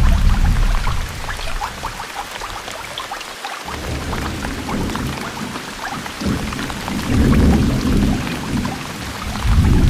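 Steady rain falling on a garden pond, many drops pattering on the water. Under it runs a low rumble that fades about a second in and swells again near the end.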